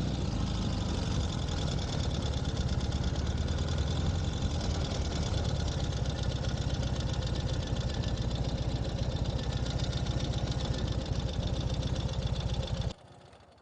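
Ural sidecar motorcycle's flat-twin engine idling steadily, then cutting off abruptly near the end.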